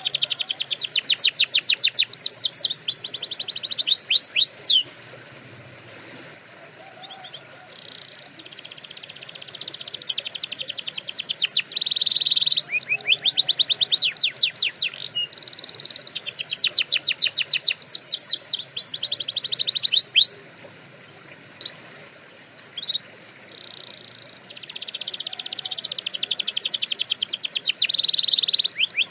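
Domestic canary singing in long, high-pitched phrases of fast rolling trills and rapidly repeated notes, broken by two short pauses: one about a fifth of the way in, one about two-thirds of the way through.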